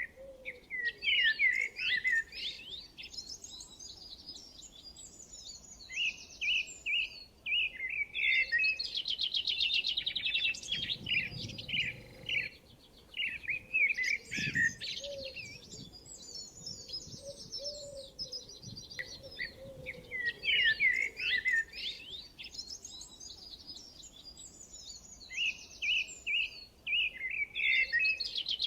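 Songbird song: bouts of quick chirps and fast rattling trills, repeated every five or six seconds over a faint steady background.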